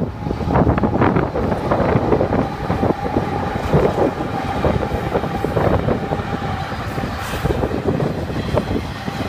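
Union Pacific diesel locomotives pulling an intermodal freight train past at speed, then double-stack container cars rolling by with the wheels clattering over the rails. A thin, steady high whine runs through the middle of the passage.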